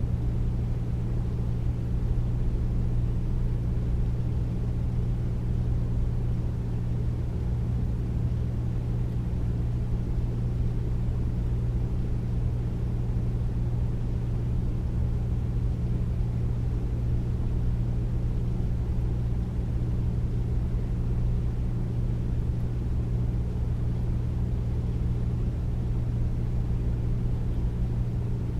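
Air conditioner running steadily: a deep, even hum with a low drone and soft rushing noise, unchanging throughout.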